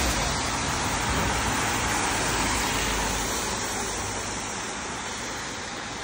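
Steady hiss of falling rain and tyre noise on a wet road, with a low rumble that slowly fades as the whole sound grows quieter.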